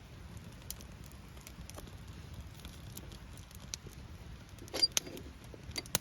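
Wood campfire crackling in light scattered ticks over a low steady rush, with a few sharper snaps about five seconds in and again near the end.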